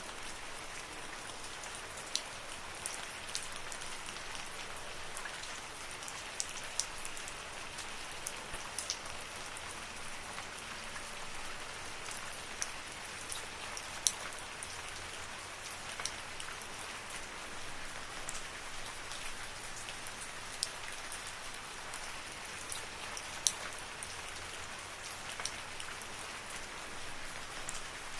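Steady rain falling in a forest: an even hiss, with many separate drops clicking sharply at irregular moments.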